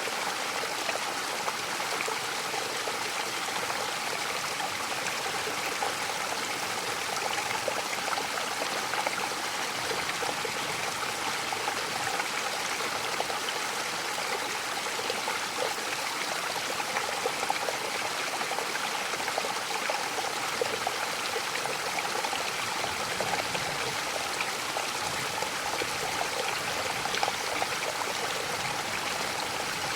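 Mountain waterfall rushing steadily, falling water splashing with a constant hiss.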